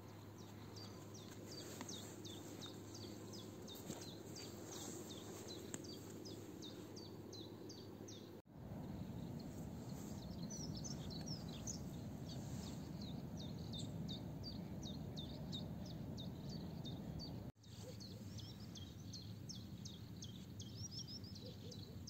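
Small songbirds chirping: short high calls, each dropping in pitch, repeated about twice a second over a steady low outdoor noise. The sound breaks off briefly twice.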